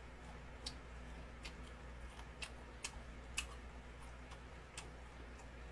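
Faint mouth sounds of chewing shell-on shrimp: a handful of sharp, irregular clicks and smacks over a low steady hum.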